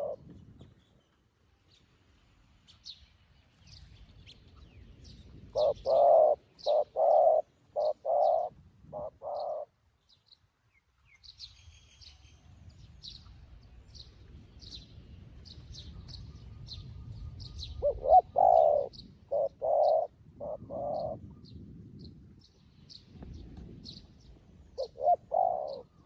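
Zebra dove cooing in three runs of short, rapid staccato notes, about seven, then six, then three or four notes, with faint high chirps throughout.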